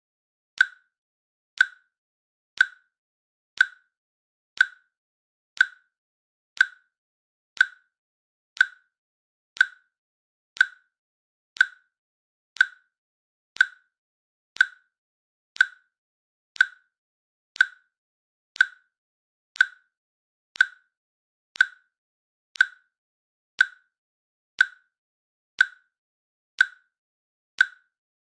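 Countdown timer's click sound: one short click every second, evenly spaced, with silence in between.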